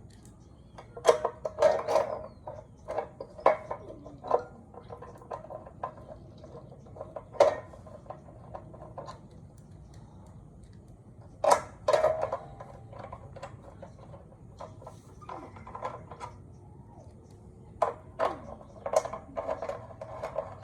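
Metal parts and tools clinking and clanking irregularly, each knock with a short ring, in small clusters with quiet stretches between. No motor is running.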